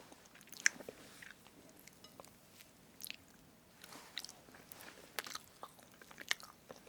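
Close-miked eating of strawberry whipped-cream cake: soft, moist chewing and biting, with scattered light clicks and taps spread through.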